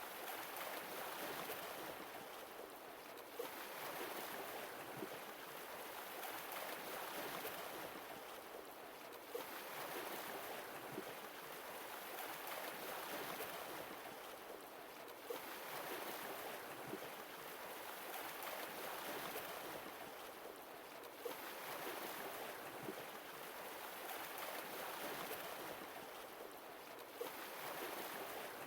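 Sea waves washing ashore in a slow rhythm, each surge swelling and easing off about every six seconds, with a faint click at the low point between waves.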